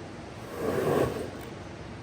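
A swishing stroke over a carpet during cleaning swells and fades about a second in, one of a slow series that comes roughly every two seconds.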